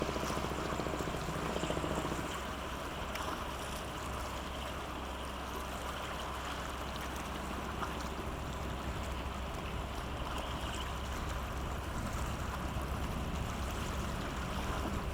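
Low, steady drone of the coastal cargo ship Daigo Imafuku's diesel engine passing through the strait, over the wash and lapping of water.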